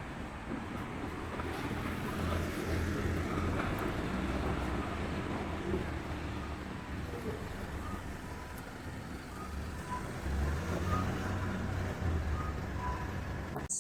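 Road traffic: a steady low rumble of motor vehicles on a road, rising and falling slightly as they pass. A few faint short peeps sound over it in the second half.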